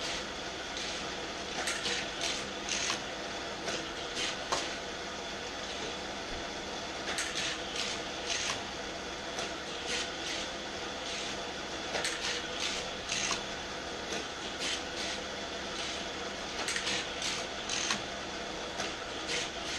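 Hot Wheels Super-Charger battery-powered booster running with a steady whirring hum. Die-cast toy cars are repeatedly shot through it and run on the plastic track, giving short sharp zips and clicks every second or so, often in quick clusters.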